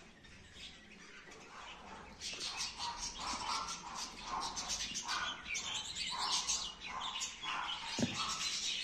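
Small birds chirping over and over, starting about two seconds in, with a single sharp knock near the end.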